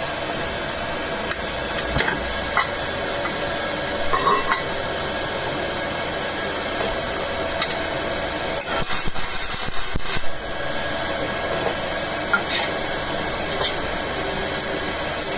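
Welding in progress: a welder's steady hum with scattered crackles and clicks, and a longer burst of hissing arc about nine to ten seconds in.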